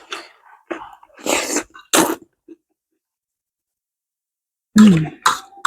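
Short, breathy mouth noises from someone eating spicy noodles, four quick bursts in the first two seconds. Near the end a rooster crows loudly.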